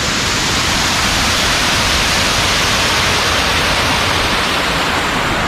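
A small waterfall's water rushing steadily down over rock.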